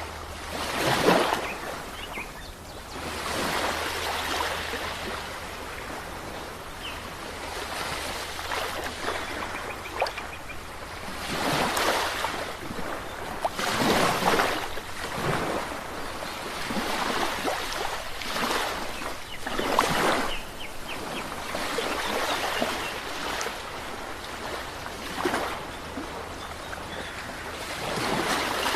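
Sea waves breaking and washing onto a shore, a steady hiss that swells into a louder surge every few seconds.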